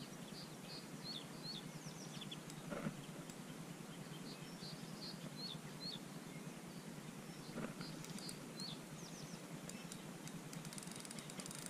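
A small songbird singing the same phrase of short high notes three times, over a steady outdoor hiss, with two soft knocks and a run of faint fast ticks near the end.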